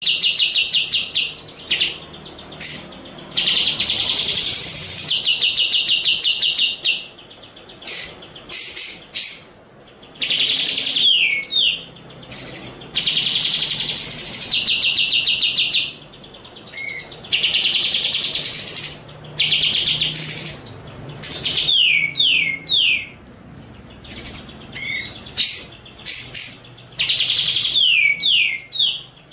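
Songbird song in repeated phrases: a fast rattling trill, then quick sharply slurred whistled notes, each phrase roughly five seconds long with short pauses between.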